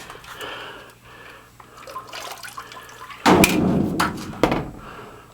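Water splashing and sloshing, loudest in a burst about three seconds in, followed by a sharp knock.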